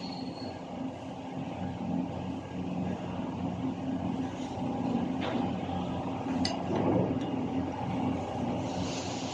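An engine running steadily with an even hum, with a few short metallic clicks and clinks over it.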